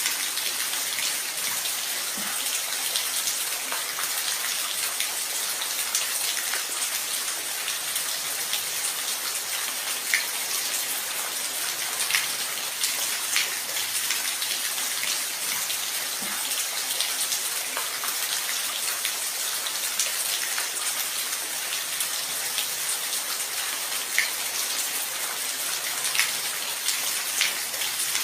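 Steady rain, an even hiss with scattered individual drops ticking sharply on a hard surface.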